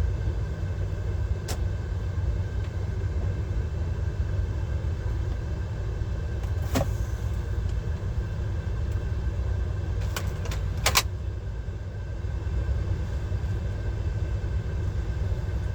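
Cab interior sound of a DAF XF 530 lorry's PACCAR MX-13 six-cylinder diesel running at low speed: a steady low rumble. A few sharp clicks or rattles come at irregular moments, several of them close together about two-thirds of the way through.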